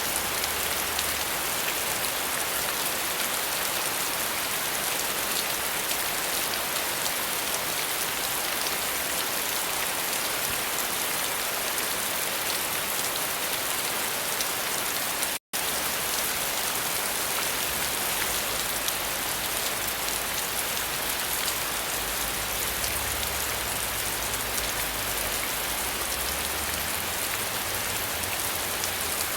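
Steady, even rain falling on a surface, a dense hiss of drops without thunder. The sound cuts out for an instant about halfway through, as at a loop join.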